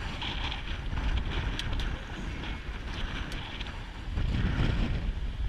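Strong wind buffeting the microphone with an uneven low rumble, gusting louder about four seconds in, with a few short sharp ticks or splashes over it.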